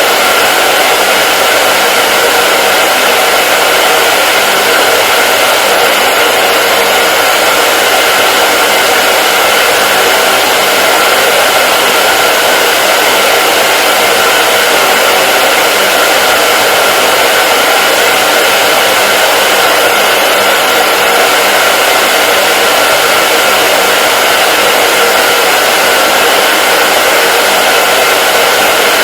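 Hair dryer running steadily, a constant whooshing blower noise with a faint steady motor hum and no change in speed.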